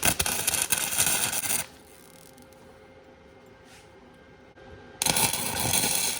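Titanium 125 flux-core wire welder arc crackling in two bursts: one at the start lasting about a second and a half, another starting about five seconds in. Each burst is a weld bead on the joint between a cast iron dumbbell head and its steel handle.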